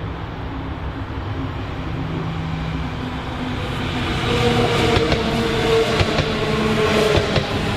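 Train running past on the rails, its rumble growing louder about halfway through, with a steady tone and repeated clicks from the wheels.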